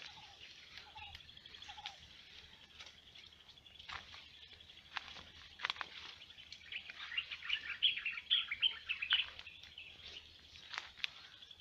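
Wild birds calling: a short low note repeated about once a second at the start, then a dense run of high chirps about two-thirds of the way through, over a steady high-pitched buzz. A few sharp clicks are heard here and there.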